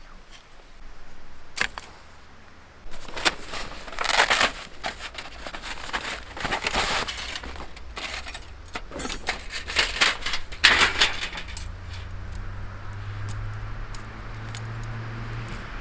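Irregular metallic clinking and rustling, like camping gear being handled. A low steady hum comes in past the middle.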